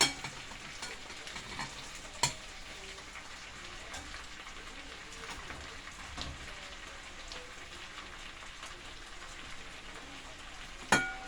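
Parrot fish sizzling in a pot of fried seasoning: a steady frying hiss, with a few sharp metal clinks against the pot, the loudest near the end ringing on briefly.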